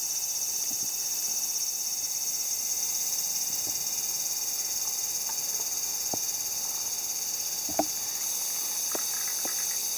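Steady high-pitched chorus of insects, with a few light knocks scattered through it.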